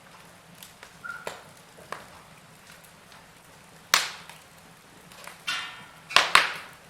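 Wood fire in a fireplace crackling, with scattered sharp pops: a loud one about four seconds in and a cluster of louder pops near the end.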